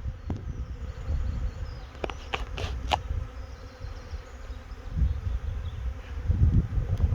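Swarm of honey bees buzzing close by, over a low, uneven rumble, with a few sharp clicks about two to three seconds in.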